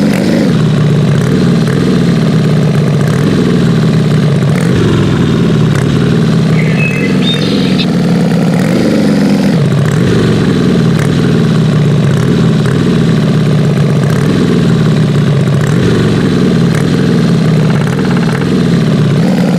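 Big 4x4 truck engine working hard, its pitch surging and falling back over and over, about once a second.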